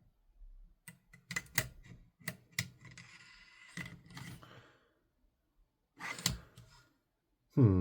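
Small metal parts of an airsoft rifle being handled: a run of light clicks and taps, then a short scraping about three seconds in, and a couple more taps near the end.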